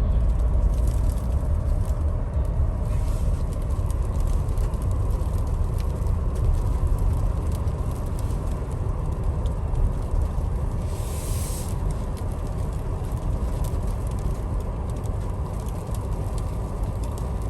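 2021 Ford Explorer ST driving slowly on a snow-covered road: a steady low rumble of engine and tyres, with light scattered ticks and a brief hiss about eleven seconds in.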